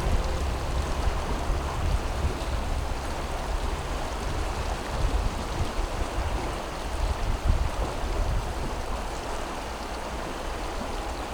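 Steady rush of flowing water, with a fluctuating low rumble underneath.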